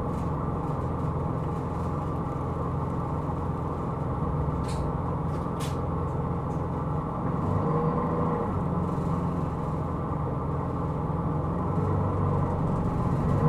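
Hino Rainbow II non-step bus driving, heard from inside the cabin: a steady engine and road drone, with an engine whine that rises in pitch partway through and again near the end as the bus picks up speed. Two faint short ticks sound near the middle.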